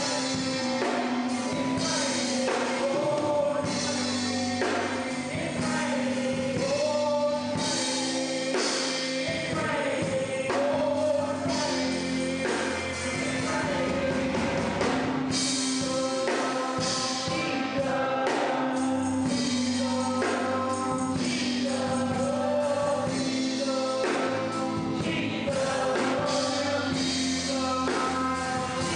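Gospel music with a choir singing over a band, a steady beat and a held organ or keyboard tone.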